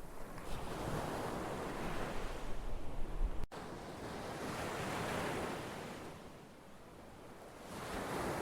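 Ocean surf, waves washing in and drawing back in slow swells that rise and fade every few seconds. There is a brief dropout about three and a half seconds in, where the track cuts and a low rumble beneath the surf stops.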